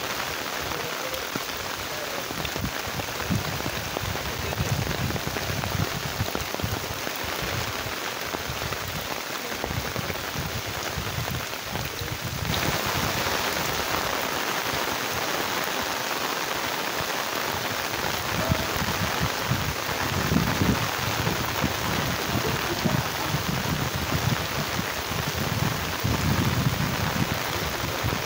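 Steady rain falling on standing floodwater and wet grass, growing louder about halfway through, with low rumbling now and then.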